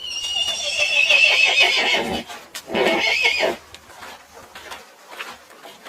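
Horse whinnying: a long, high, wavering neigh lasting about two seconds, then a shorter, lower second call. Faint clicks follow.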